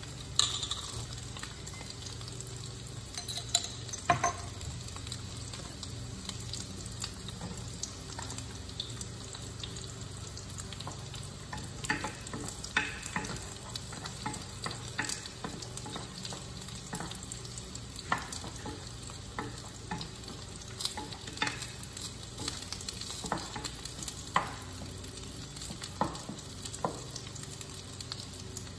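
Food frying and sizzling in two pans on an electric stove, hot dogs in one, with a steady hiss. A spoon stirs in the other pan, and there are scattered sharp clicks and pops, more of them in the second half.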